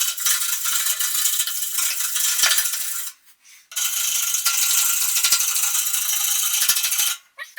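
A tool scraping soot off the steel walls inside a pellet stove's combustion chamber, in two long scraping bouts with a brief pause between them.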